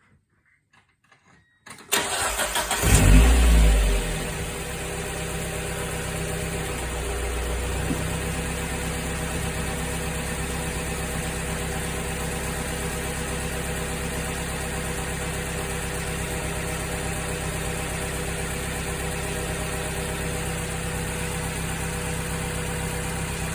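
Mazda Miata's four-cylinder engine cold-starting: after a few faint clicks, the starter cranks briefly about two seconds in, the engine catches with a loud flare of revs, then settles into a steady idle.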